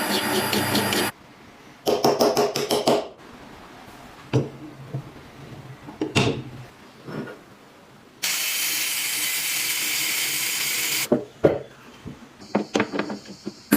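Workshop restoration sounds: a power tool running briefly at the start, then a quick run of rapid scraping strokes, scattered taps and knocks, and a steady hiss lasting about three seconds.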